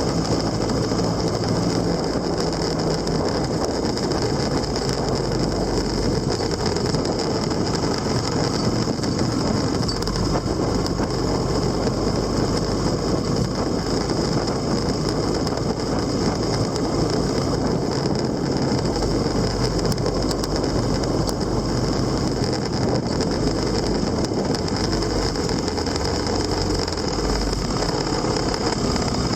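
Motorcycle engine running steadily on the move, its note shifting slowly in pitch over a continuous rush of wind and road noise.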